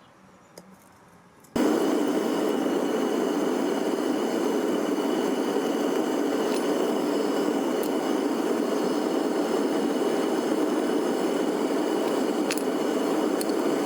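Gas-fired melting furnace burner running with a steady roar that cuts in suddenly about a second and a half in, with a faint high steady tone above it.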